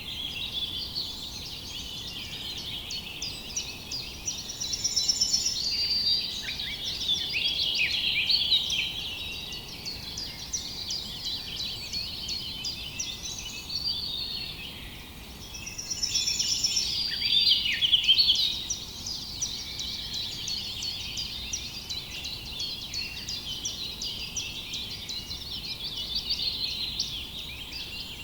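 Many small birds chirping and singing at once, a dense overlapping chorus of short high chirps that swells louder twice, about five seconds in and again around sixteen seconds in.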